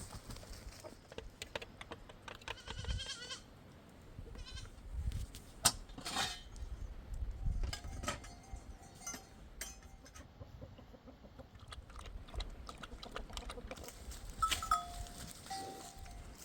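A flock of sheep bleating, with quavering calls about three and four and a half seconds in, among scattered light clicks and knocks.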